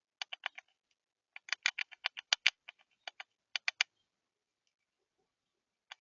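A bird pecking at the feeder close to the microphone: quick, sharp taps in bursts. There is a short run of about five taps at the start, a longer run of about a dozen around two seconds in, a few more shortly after, and another short burst near the end.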